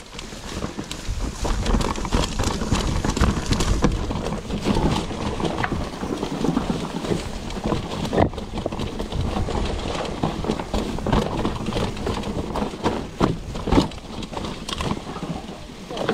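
Mountain bike riding over a rough dirt trail: a dense, irregular rattle of knocks from the bike over bumps, with heavy wind rumble on the microphone.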